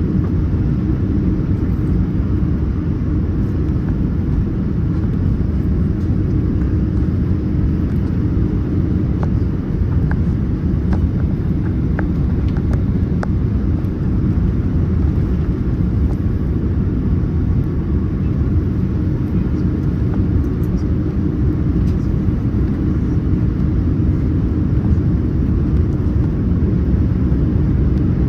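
Steady low rumble of engine and airflow noise inside a Boeing 787-9 Dreamliner's cabin, with a faint steady hum and a few light clicks.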